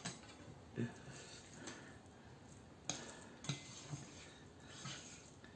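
Quiet eating of instant black-bean noodles: about seven short, scattered clicks of utensils against the bowl, with soft eating noises between.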